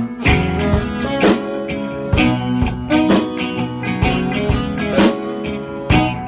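A rock band playing an instrumental stretch of a song: guitar and bass over a drum kit, with a drum hit about once a second.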